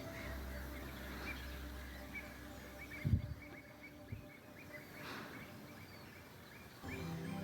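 Outdoor wetland ambience full of short, repeated bird calls, with a single knock from handling the phone about three seconds in.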